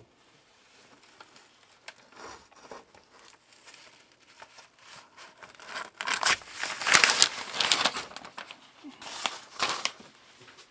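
Irregular crinkling and rustling handling noises, faint at first and loudest from about six to ten seconds in.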